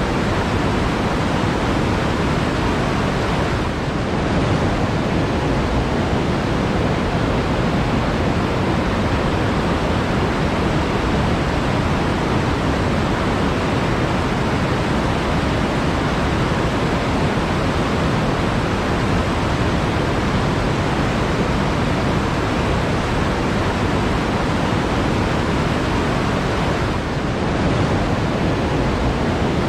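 Flowing water rushing steadily, a dense even wash of sound with no distinct splashes; it dips slightly and briefly about four seconds in and again near the end.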